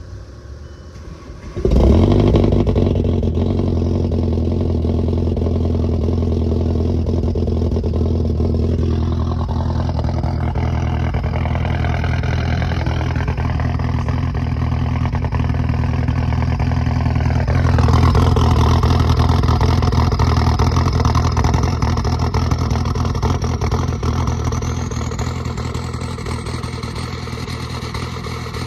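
Straight-piped Volkswagen mk4 TDI diesel engine cold-started, catching about two seconds in. It then runs at a loud, rough cold idle through the open exhaust, gets louder a little past halfway and eases slightly near the end.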